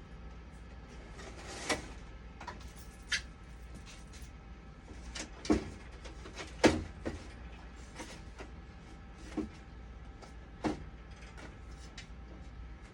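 Irregular clicks and knocks of parts and tools being handled on a dialysis machine under repair, the two loudest a little past halfway, over a steady low hum.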